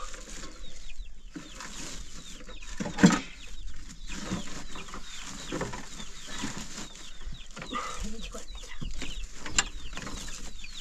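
Birds chirping over and over in short falling calls, with a single sharp knock about three seconds in.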